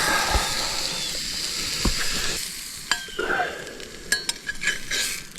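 Food frying in a hot pan, a steady sizzle that is loudest at first and slowly dies down, with a few light clicks in the second half.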